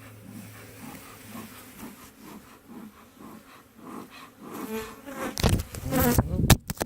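Agitated honeybees buzzing around an opened hive, the defensive 'attack sound' of bees that are no longer calmed by smoke. Near the end the buzz gets much louder and close, with a few sharp bumps.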